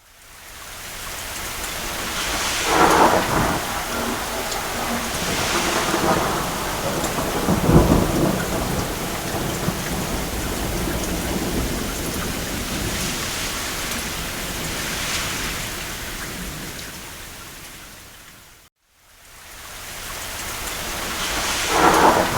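Steady rain on a roof with several rolls of distant thunder, the deepest about eight seconds in. About three-quarters of the way through, the sound cuts out to silence for a moment and fades back in.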